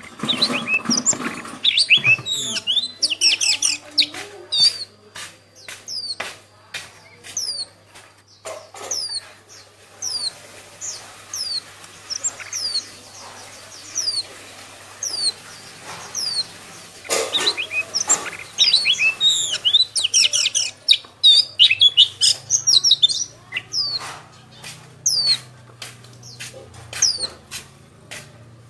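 Small birds chirping, many short high notes that slide down in pitch, with scattered sharp clicks among them. The chirping is busy at first, thins out in the middle and picks up again about two-thirds of the way through.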